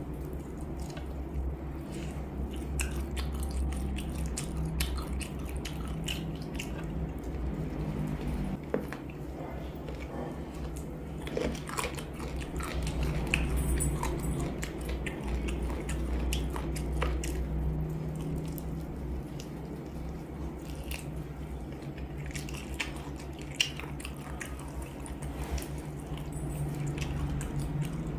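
Close-up biting, chewing and sucking on spicy chicken feet: wet, squishy mouth sounds with many small clicks and smacks. A steady low hum runs underneath.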